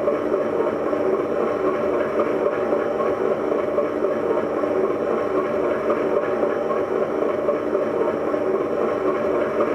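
Steady mechanical drone with several held tones, like an engine running, unchanged throughout.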